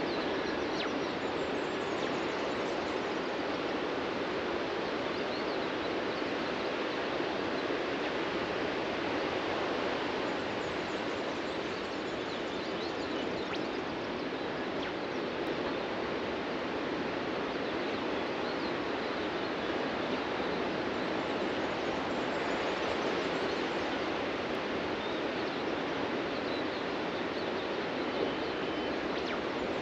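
Ocean surf breaking on a beach: a steady wash of waves that swells and eases slowly, with faint short bird chirps over it.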